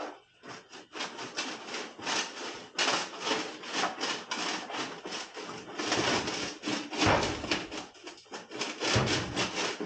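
Rapid, repeated rubbing or scraping strokes, several a second, with a couple of heavier low thumps about seven and nine seconds in.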